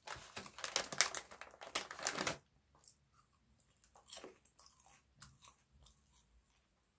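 Crisp, thin shrimp chips (Haitai Ppasak-han Saeu Chip) bitten and crunched loudly for about two and a half seconds. Softer, scattered chewing follows.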